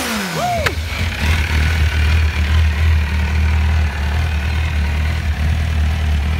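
MV Agusta F4's inline-four engine idling steadily just after a cold start, with a short throttle blip about half a second in.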